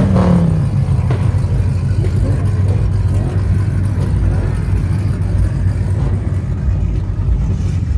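Car engine running with a steady low exhaust rumble, after a short rev right at the start.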